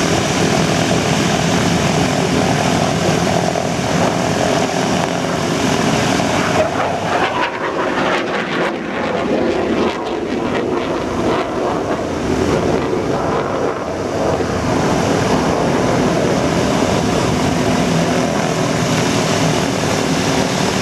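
Propeller airplane engine running with a steady drone, briefly softer about eight seconds in.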